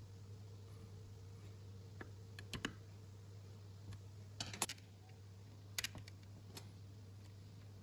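Scattered light clicks and taps of small metal parts and hand tools being handled, the loudest a quick cluster about halfway through, over a steady low hum.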